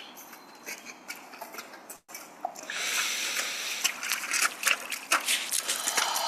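Running water with small drips and splashes, starting about two and a half seconds in after a short quiet stretch.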